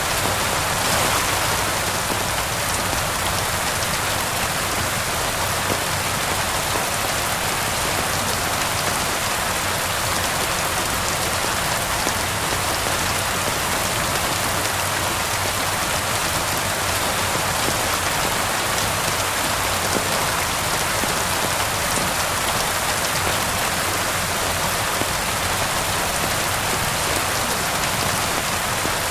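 Steady rain falling on a surface, an even, unbroken hiss with no change in strength.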